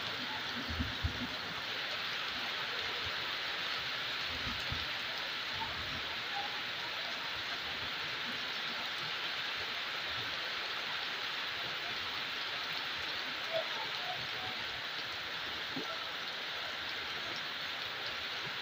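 Heavy tropical rain falling steadily onto a paved road and roofs as an even hiss, with a few brief low rumbles in the first seconds.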